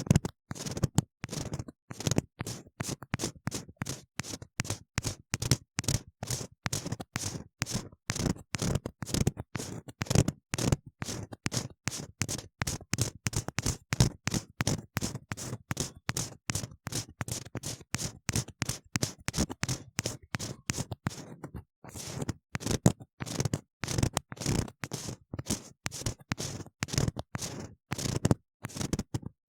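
Ear-cleaning tool scraping and scratching inside a silicone ear model in quick, firm, repeated strokes, several a second, with brief pauses between runs.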